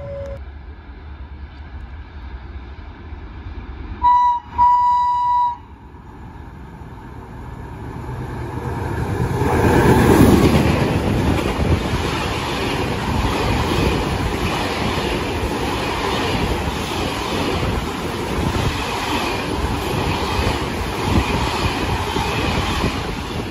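Train horn sounding two blasts about four seconds in, a short one and then a longer one. A freight train then passes: a rumble builds and peaks as the locomotive goes by, followed by the steady rhythmic clatter of its open box wagons' wheels on the rails.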